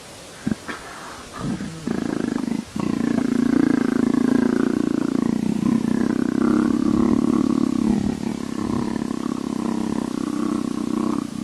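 Leopard purring: a deep, finely pulsed rumble likened to a motorcycle engine. A few short purrs come in the first two seconds, then one long unbroken purr runs until just before the end.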